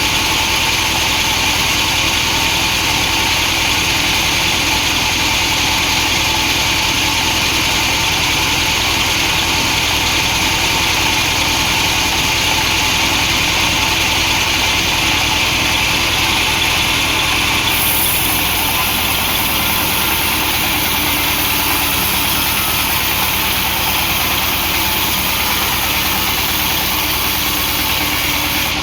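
Chainsaw running steadily at full throttle as it rips a log lengthwise. A higher hiss joins about eighteen seconds in.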